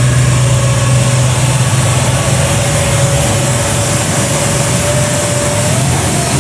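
1995 Mazda MX-5 Miata's 1.8-litre four-cylinder engine idling steadily, with a thin whine that rises slightly near the end.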